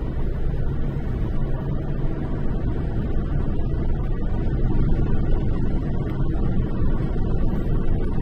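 Steady low rumble of a car's engine and tyres on the road, heard from inside the cabin while driving, growing slightly louder about halfway through.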